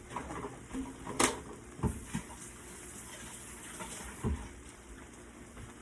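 A few scattered knocks and clatters of kitchen cookware, the sharpest about a second in, over a faint steady hiss.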